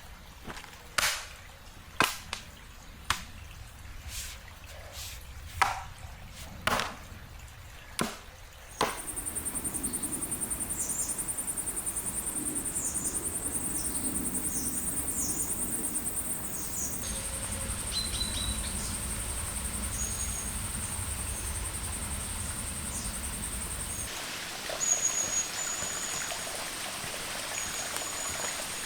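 About nine sharp knocks, roughly one a second, from hand tools striking the ground during the roadwork. These give way to a steady trickle of water, with small birds chirping.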